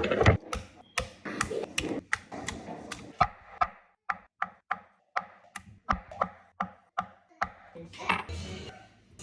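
Knife chopping food on a cutting board in quick, even strokes, about three a second.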